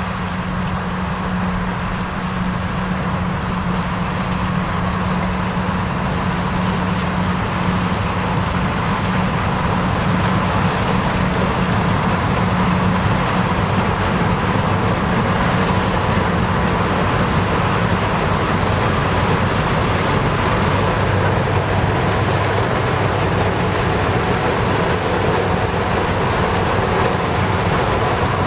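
Combine harvester working in standing corn: a steady, loud drone of diesel engine and threshing machinery with a low hum, growing slightly louder over the first several seconds as it comes closer.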